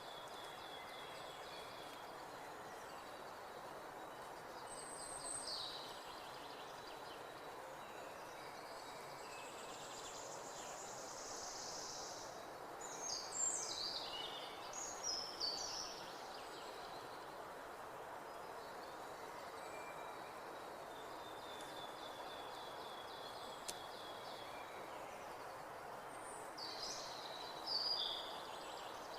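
Songbirds singing short, high phrases on and off, the busiest stretch a little before halfway and another near the end, over a steady rushing background noise.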